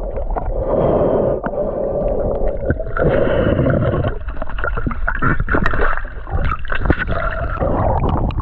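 Water gurgling and sloshing around a swimming spearfisher, muffled, with a scatter of short clicks and knocks.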